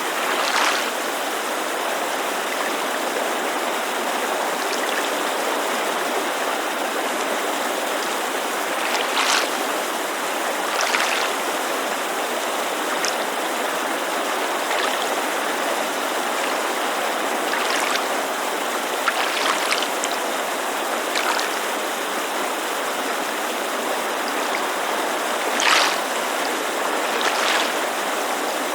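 Steady rushing of a mountain creek with water lapping at a lakeshore, small splashes standing out every few seconds.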